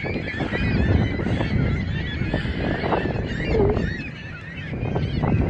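A large flock of birds calling over one another, many short overlapping calls, with a steady low rumble of wind on the microphone underneath.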